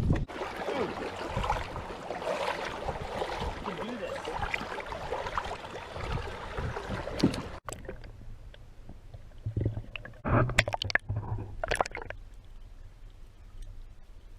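Water sloshing and gurgling close to the microphone as a fish is released by hand under the river surface. About seven and a half seconds in it cuts off abruptly to a quieter low hum with a few short knocks.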